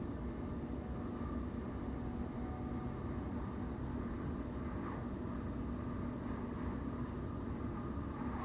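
Electric suburban passenger train running at speed, heard from inside the carriage: a steady low rumble with a constant hum running through it.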